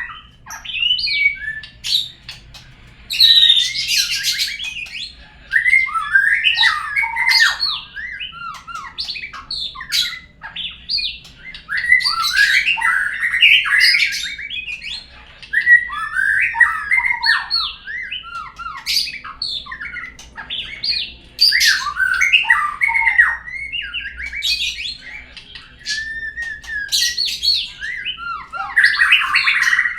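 Murai songbird song played as a lure recording: an unbroken run of loud, varied phrases of rising and falling notes mixed with harsh chatter, separated by short pauses.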